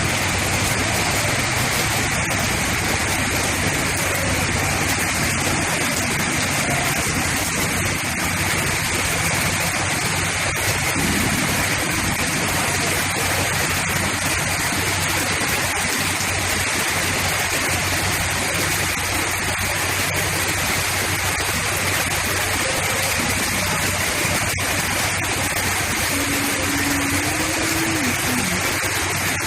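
Heavy rain pouring down, an unbroken steady hiss.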